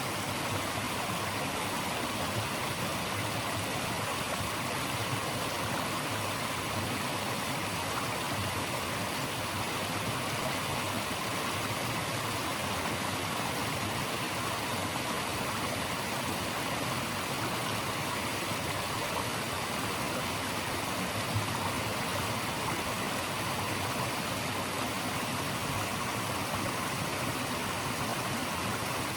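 A stream of running water, rushing steadily with no change or break.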